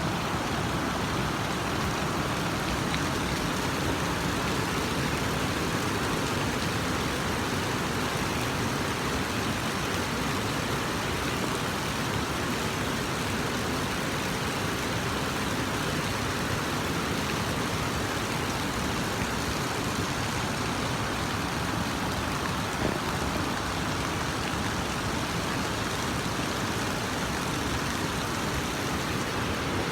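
Steady rain falling, an even hiss of water that keeps the same level with no breaks.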